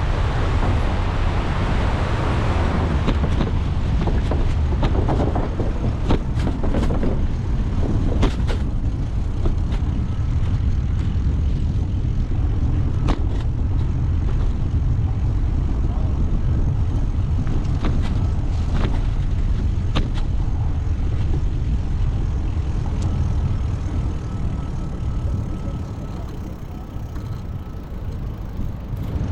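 Wind buffeting the microphone and road rumble from a moving bicycle, with scattered sharp clicks and knocks, most of them in the first third.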